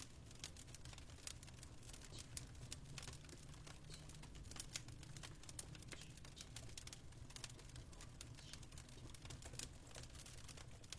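Faint fireplace fire crackling: dense, irregular small snaps and pops over a low steady rumble.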